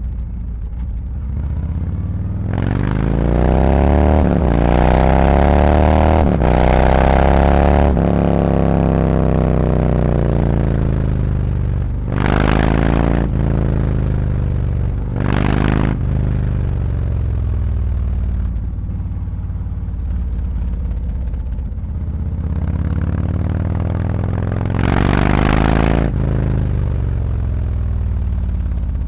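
Harley-Davidson Road Glide's V-twin engine through SuperTrapp 4-inch internal-disc slip-on mufflers, ridden in town. It pulls hard through several upshifts, rising in pitch in steps from a couple of seconds in, then rolls off and slows. Two short throttle pulls follow near the middle, and there is another rise shortly before the end that drops away sharply.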